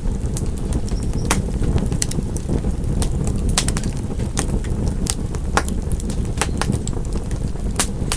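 Wood fire burning in a fireplace: a steady low rumble of the flames with frequent sharp, irregular crackles and pops of splitting wood.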